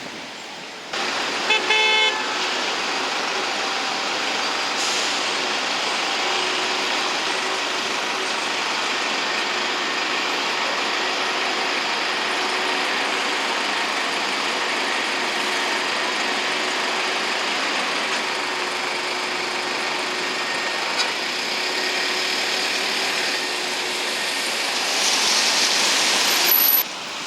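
Steady city traffic noise, with a vehicle horn honking briefly about a second and a half in.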